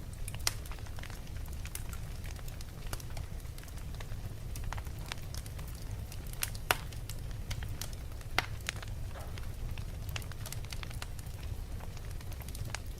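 Wood fire in a fireplace crackling: irregular sharp pops and snaps, a few louder ones standing out, over a steady low rumble of the flames.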